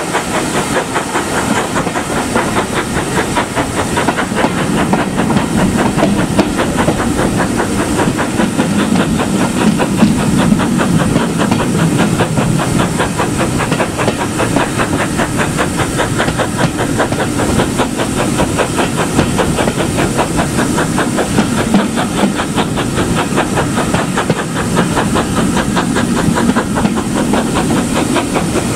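Steam locomotive working close by: a loud, steady hiss of steam over a fast, even run of beats.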